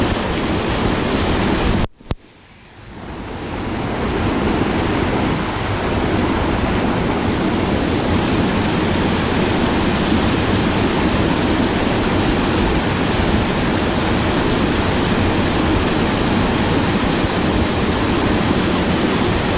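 Steady rush of fast-flowing water, as from a waterfall or mountain river. It cuts out abruptly about two seconds in, then fades back up and continues evenly.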